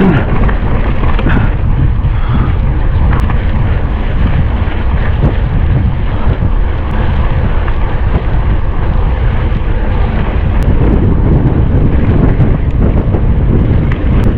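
Wind rushing over the microphone of a camera on a mountain bike going down a descent at speed: a loud, steady rush, heaviest in the low end.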